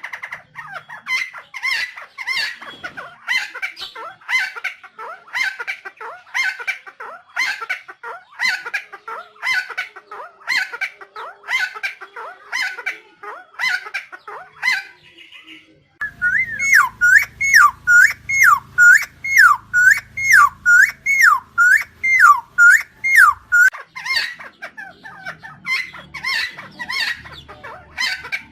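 Helmeted friarbird (Philemon buceroides) calling over and over in loud, harsh notes, about one and a half a second. Just past halfway the recording changes to a faster run of looping, down-slurred notes over a low hum, then back to the repeated calls near the end.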